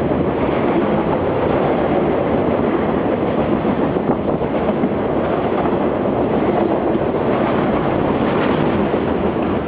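Freight train of box cars rolling past at steady speed, a continuous rumble of steel wheels on rail.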